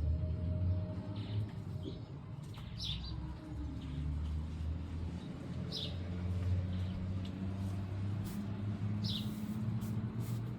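Birds chirping: three short, high chirps about three seconds apart, over a low steady hum.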